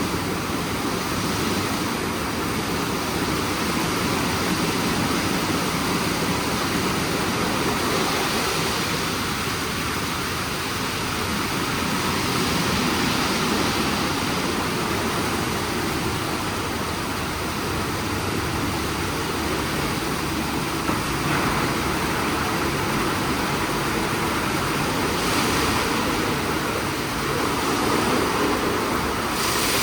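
WashTec SoftCare² Pro rollover car wash running with a steady, loud rush, a little louder near the end.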